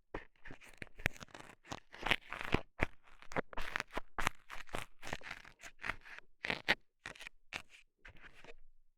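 A metal scaler scraping and poking in the ear of an ASMR microphone: rapid, irregular scratchy strokes, several a second, that stop just before the end.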